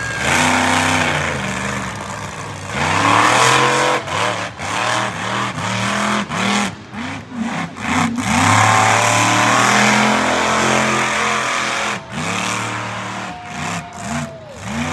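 Monster truck engine revving hard in repeated throttle bursts, its pitch climbing and falling with each one. Long loud surges alternate with runs of short, quick blips.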